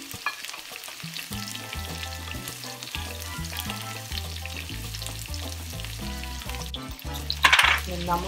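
Raw mango pieces sizzling in hot oil in a non-stick frying pan while a spatula stirs them, with a louder brief burst of noise near the end.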